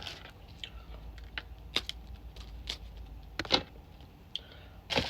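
Scattered light clicks, taps and rustles of plastic food containers and condiment packets being handled, the sharpest tap about three and a half seconds in.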